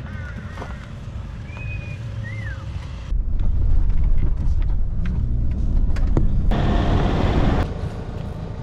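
Wind buffeting a helmet-mounted action camera's microphone and knobby tyres rolling over dirt on a fast mountain-bike descent. A few high chirps are heard at first. About three seconds in, a loud low rumble sets in and lasts about four seconds, with a harsher gravelly hiss near the end before it drops back.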